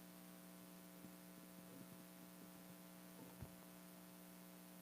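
Near silence: a faint, steady electrical hum, with a small click about three and a half seconds in.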